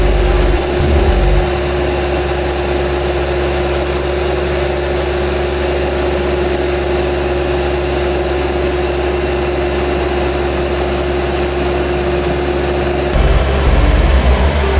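An engine running steadily, its sound shifting and getting a little louder about thirteen seconds in.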